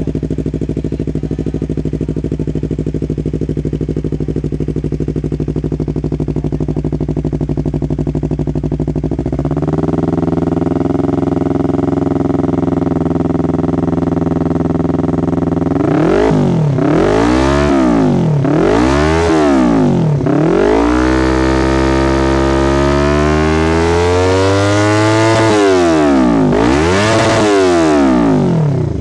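Yamaha R25 parallel-twin motorcycle engine with an aftermarket Sakura exhaust. It idles steadily, then is held at a higher steady speed from about ten seconds in. In the second half it is revved in a series of quick blips, one longer climb that is held, and two more blips before it drops back.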